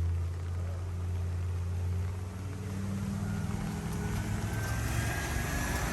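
A motor vehicle's engine running with a steady low hum, its note shifting about two seconds in. A faint whine rises slowly through the second half.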